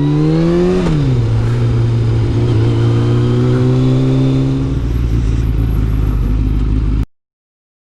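Kawasaki ZZR600's inline-four engine under way, its pitch rising for about a second, then dropping sharply and running steadily at a lower pitch. The sound cuts off suddenly about seven seconds in.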